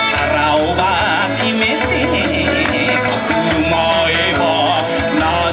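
Live Kawachi ondo band music for bon odori dancing, with a steady drum beat, a pulsing bass and a wavering melody line.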